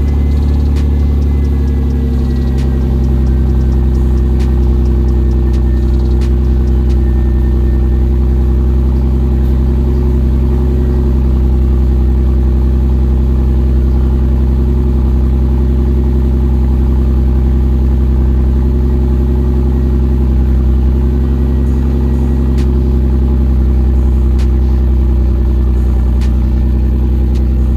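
Toyota 2JZ-GTE twin-turbo straight-six idling steadily, its idle speed dropping and settling over the first couple of seconds after starting. The engine has the misfire and rough idle the owner is diagnosing, which he blames on an E85/93 fuel blend left sitting in the tank.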